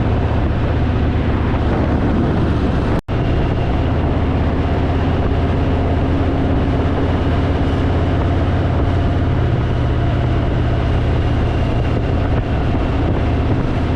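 Harley-Davidson motorcycle engine running at a steady cruising speed under way, with wind rushing over the microphone. The sound cuts out briefly about three seconds in.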